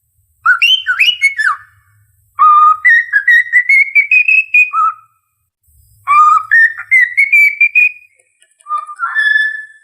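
Cockatiel whistling a learned tune in clear, pitched notes. It opens with a few quick swooping notes, then gives two phrases that climb step by step in pitch, then starts another phrase near the end.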